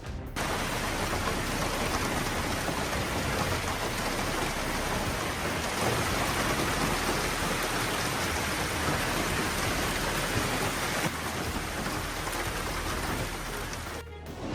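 Heavy rain pouring down steadily: a dense, even hiss of a storm, shifting slightly in level a couple of times.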